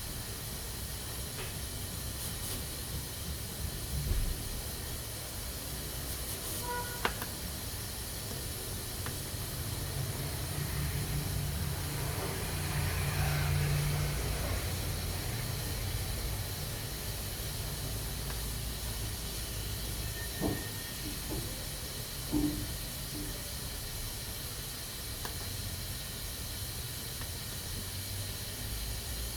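Pressure cooker hissing steadily as steam escapes, over a low rumble, with a few faint clicks along the way.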